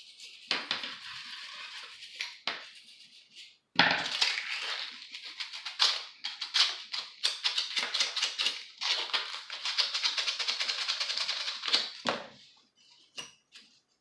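Rapid back-and-forth scrubbing strokes of a hand brush against a hard surface. A short run is followed, after a brief pause, by a longer run of about eight seconds.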